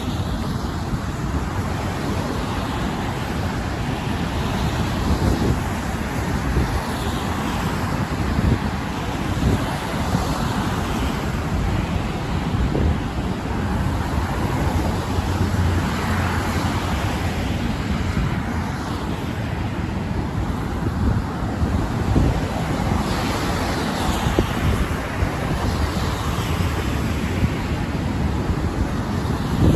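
Steady road traffic noise from cars driving across the bridge's roadway, with a few louder passes swelling and fading, under low wind rumble on the microphone.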